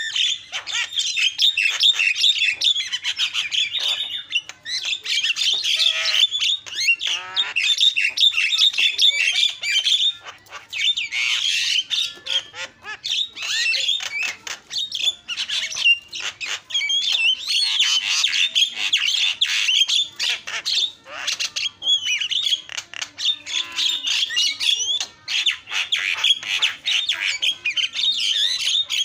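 Javan myna singing without a break: a fast, dense jumble of chattering and whistled notes, pausing briefly every few seconds.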